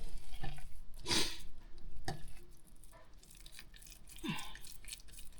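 Kitchen handling sounds while minced-meat cutlets are scooped and shaped: a short loud rustle about a second in, then a few softer knocks and squishy handling noises, with a brief falling squeak near the end.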